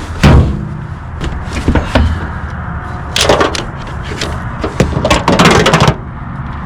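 Tent being pitched by hand: metal tent parts knocking and clicking, with longer bouts of rustling and scraping about three seconds in and again near the end.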